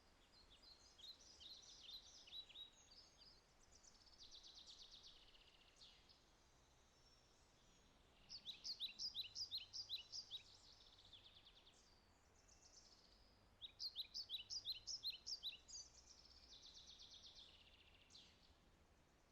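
A songbird singing high-pitched phrases, each a quick run of sharp notes about five a second followed by a buzzy trill, three times, over a faint steady background.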